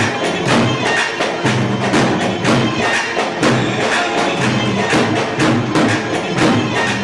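Live Arabic music: a steady, evenly repeated hand-percussion beat under a pitched melody line.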